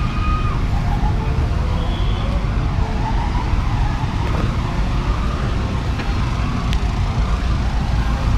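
Steady low rumble of car engines running, with a few faint short tones higher up.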